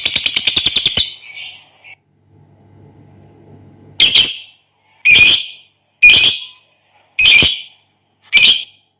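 Lovebird's fast chattering trill (the long "ngekek" prized by keepers) that breaks off about a second in, followed after a pause by five loud, harsh squawks about a second apart.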